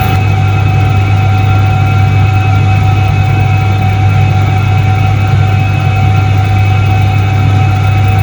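1978 Soviet ISET-3 washing machine running: a steady motor drone with a low hum and a thin, constant whine above it, unchanging throughout.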